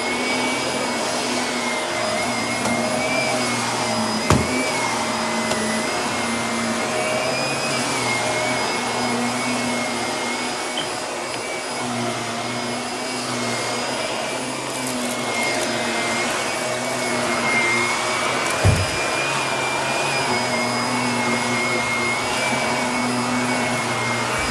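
Vacuum cleaner running steadily on carpet, its motor whine wavering slightly as it is pushed back and forth, with a few crackles of fine dirt being sucked up. Two short knocks, about 4 seconds in and near the end.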